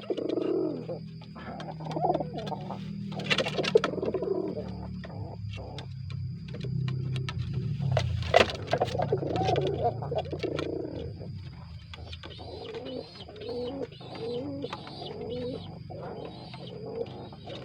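Domestic pigeons cooing over and over, the courtship cooing heard while a pair is being matched, with a couple of sharp knocks about four and eight seconds in.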